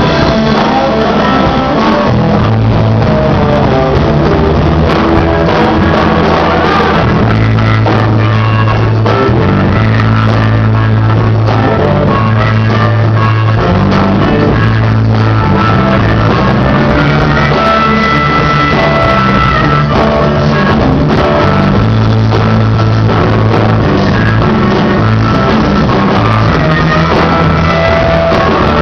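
Rock-and-roll band playing loudly, with a walking bass line under held higher notes and a voice singing.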